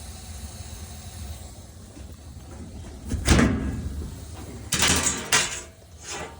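Old 1978 gas furnace running with a steady low hum. Several short sliding, scraping knocks come about three seconds in, twice around five seconds, and once near the end.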